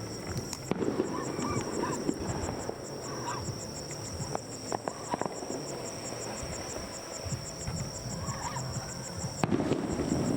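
Aerial fireworks bursting at a distance: scattered sharp pops and crackles, over a steady, rapidly pulsing high chirp.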